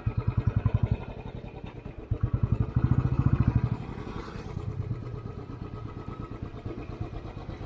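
Motorcycle engine running at low revs with an even, fast low beat, swelling louder twice, briefly at first and again about two seconds in.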